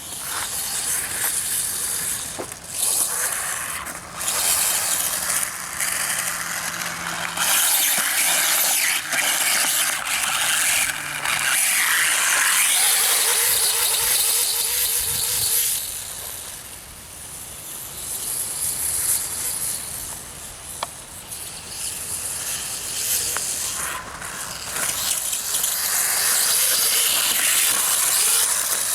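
Reely RC dirtbike's brushless electric motor whining high as the bike runs, swelling and fading as the throttle is worked, with short breaks and a quieter spell past the middle.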